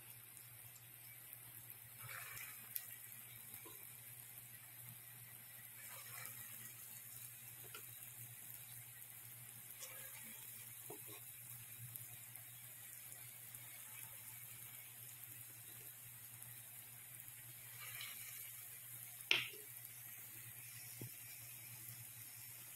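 Urad dal vadas frying in hot oil in a small pan: a faint sizzle over a steady low hum, with a few soft taps and swells as more spoonfuls of batter go in. One sharper knock comes near the end.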